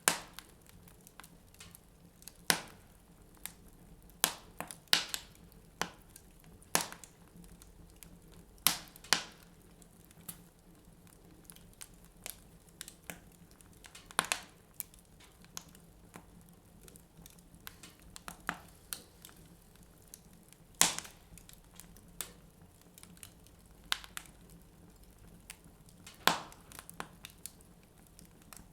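Wood fire burning in a fireplace, crackling with irregular sharp pops, a dozen or so loud ones among many small ticks.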